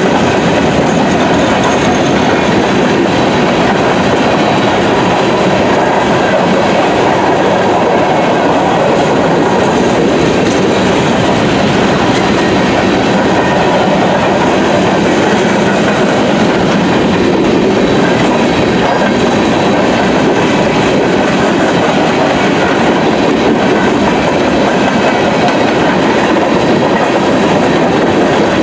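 Loaded coal train's hopper cars rolling past: steel wheels on the rails making a steady, loud rumble and clatter.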